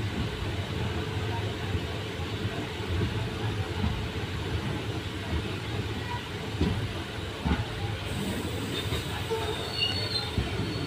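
Passenger train coach running on the rails as the train pulls into a station. It makes a steady rumble with scattered clicks and a faint, steady squeal.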